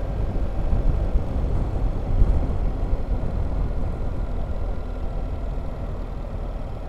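BMW R1300GS boxer-twin motorcycle engine running, heard as a steady low rumble mixed with wind buffeting on the microphone.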